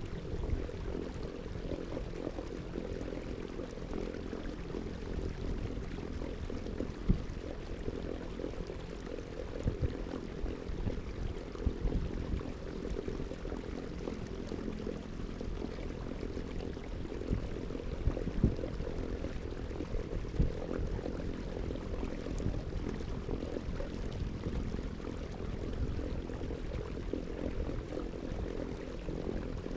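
Water sloshing and splashing around a kayak, with a steady low hum underneath and scattered short knocks or splashes.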